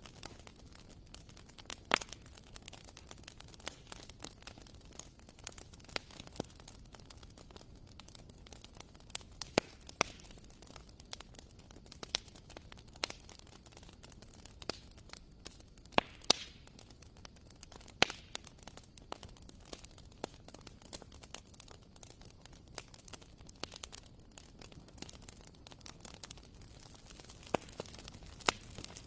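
Wood fire burning in a fireplace: a low steady hiss with irregular sharp crackles and pops, a handful of them loud.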